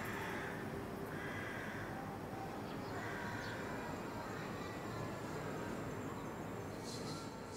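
A bird calling, three calls spaced a second or so apart in the first few seconds, over a steady outdoor background hiss.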